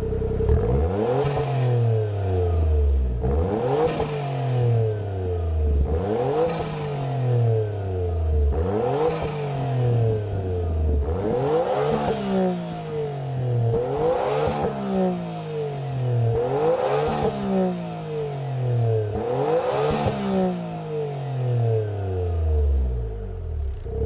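Suzuki Cappuccino's turbocharged three-cylinder F6A engine, breathing through a pupa Euro twin-outlet muffler, blipped again and again about every two and a half seconds. Each time it revs up sharply and then drops quickly back down, with a short hiss at the top of each rev.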